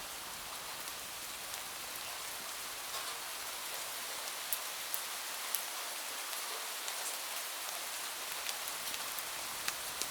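Steady rain: an even high hiss with scattered sharp ticks of single drops.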